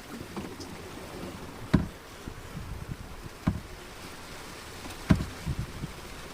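Waves slapping against the hull of a small fishing boat at sea, three sharp slaps about a second and a half apart over a steady rush of wind and water.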